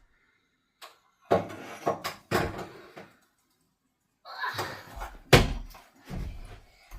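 A series of household knocks and thumps, with one sharp bang about five seconds in, the loudest of them.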